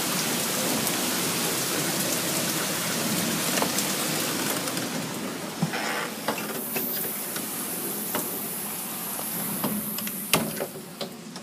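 Heavy rain downpour falling steadily. Scattered sharp taps and clicks come through in the second half, and a single loud knock sounds near the end.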